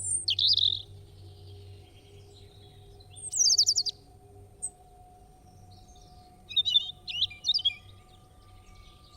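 Birds chirping in three short bursts of quick, high song a few seconds apart, over a faint low steady hum.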